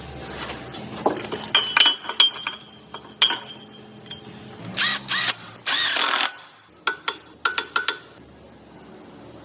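Tools working on metal engine parts during assembly: sharp clicks and ringing clinks, a few short bursts from a power tool about five seconds in, then a quick run of ratchet-like clicks.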